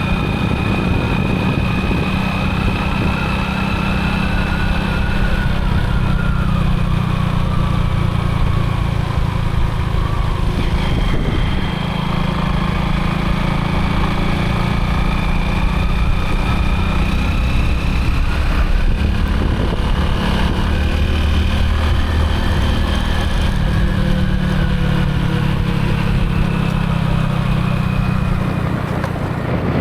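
Motorcycle engine running steadily while being ridden, its pitch drifting slowly up and down with speed, easing off briefly about eleven seconds in.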